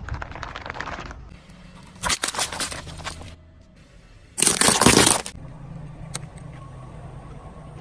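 Crunching and crackling of objects being crushed under a car, in three bursts, the last and loudest about four and a half seconds in, over a steady low hum.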